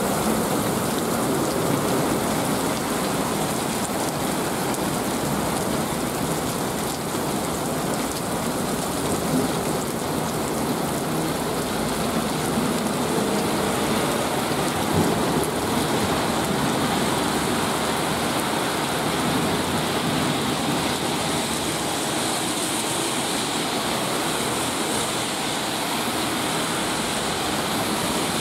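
Heavy rain pouring down in a steady, dense hiss on the road and surroundings, with the tyres of passing cars swishing through standing water on the wet road.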